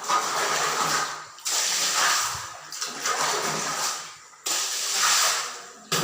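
Water gushing or splashing in repeated surges, each starting suddenly and fading away, about one every second and a half.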